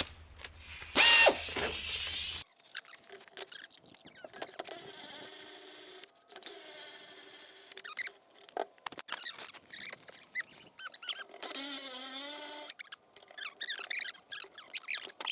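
Intermittent high squeaks and squeals of metal rubbing on metal, in short bursts and a few longer held tones, with scrapes and clicks between them, as the exhaust hardware is worked with a wrench.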